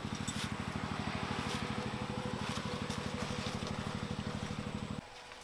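Small engine running steadily with an even, rapid pulse, which stops suddenly about five seconds in.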